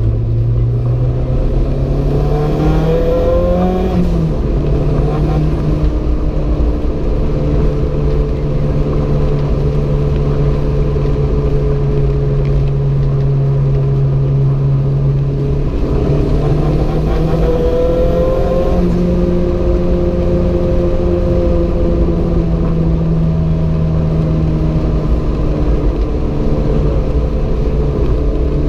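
Renault 5 GT Turbo's turbocharged four-cylinder engine running under load, rising in revs over the first few seconds and again about halfway through after a drop in pitch, holding steady in between, over constant road noise.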